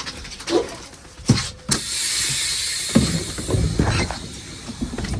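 School bus engine idling with a low rumble, several sharp knocks and clunks, and a steady hiss lasting about two seconds near the middle.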